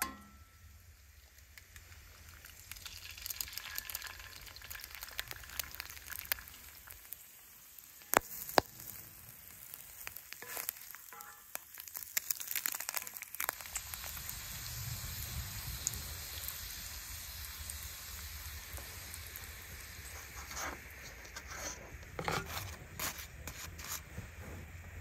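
Bacon and eggs frying with a steady sizzle in a cast-iron skillet on a gas camp stove. A couple of sharp knocks come about eight seconds in, and a few clicks of handling near the end.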